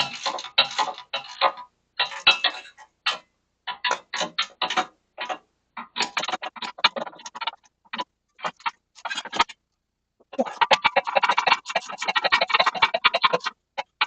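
Ratchet wrench clicking in short bursts of strokes against metal, then a longer, faster run of clicks near the end.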